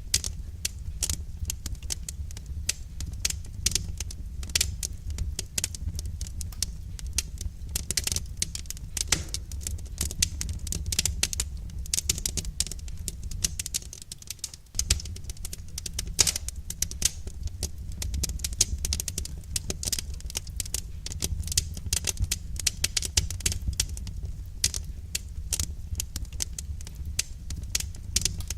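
Wood fire crackling: a dense, irregular run of sharp snaps and pops over a steady low rumble, with a brief drop in level about halfway through.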